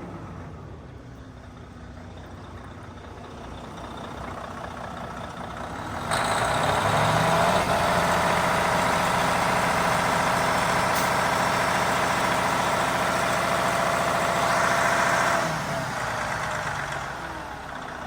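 2012 Detroit Diesel DD13 12.8-litre inline-six diesel engine idling, then revved up about six seconds in. It is held at higher speed with a louder rush for several seconds, and drops back to idle near the end.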